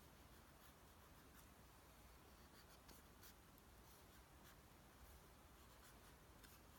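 Near silence, with faint, irregular light scratching and ticking.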